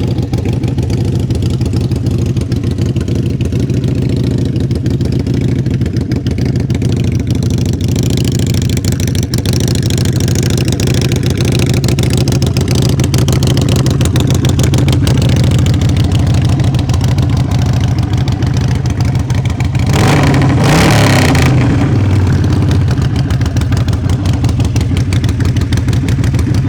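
2014 Harley-Davidson Sportster 883 Iron's air-cooled 883 V-twin idling steadily through Vance & Hines aftermarket exhausts, freshly started. About twenty seconds in, it is revved once briefly and drops back to idle.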